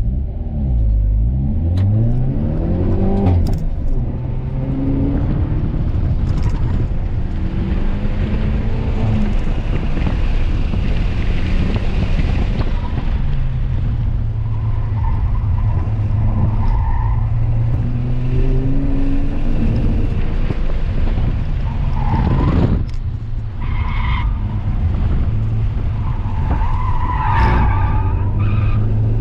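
Hyundai Veloster N's turbocharged 2.0-litre four-cylinder heard from inside the cabin, revving hard from a standing launch with an upshift a few seconds in. It then rises and falls as the car drives through a track course at speed. The engine note drops briefly about three-quarters of the way through, and the tyres squeal at times in the later corners.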